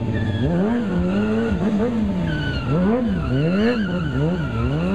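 Kawasaki ZX-6R sport bike's inline-four engine revved up and down in quick swells, about six times, while stunt riding.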